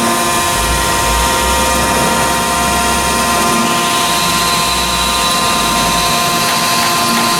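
Chevalier 1628AD surface grinder running steadily, a mix of motor hum tones with a higher whine that comes in about halfway through.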